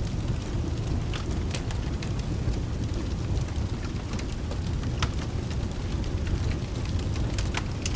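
Steady rain with a low continuous rumble underneath, and scattered sharp crackles and pops of a wood fire, a dozen or so at irregular intervals.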